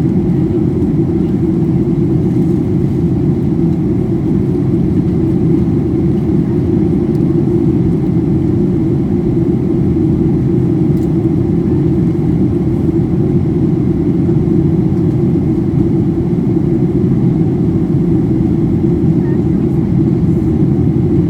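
Steady low rumble inside the cabin of a Boeing 737-800 in descent, from air rushing past the fuselage and its CFM56-7B engines.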